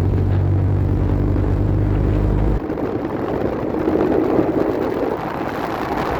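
Izh 49 motorcycle's single-cylinder two-stroke engine running with a deep, steady note; about two and a half seconds in the low note cuts off abruptly and a rougher, higher engine sound carries on.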